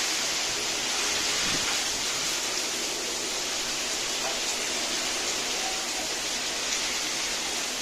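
Heavy storm rain pouring down, a steady, even hiss.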